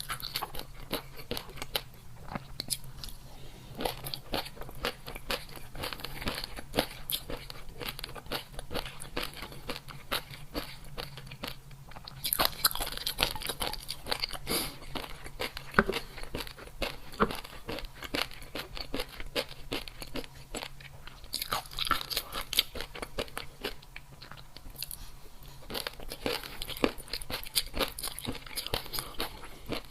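A person chewing crunchy food close to the microphone: rapid crisp crunches, louder in several bouts.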